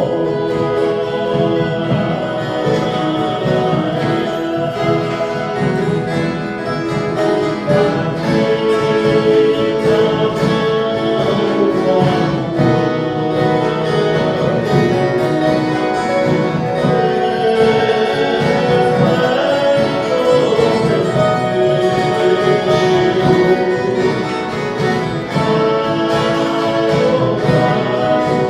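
Viola caipira orchestra, an ensemble of Brazilian ten-string folk guitars, playing a continuous plucked and strummed tune.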